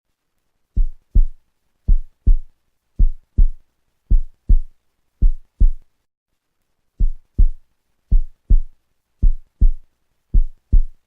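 Heartbeat sound effect: deep lub-dub double thumps, about one pair a second, with a short pause about halfway through.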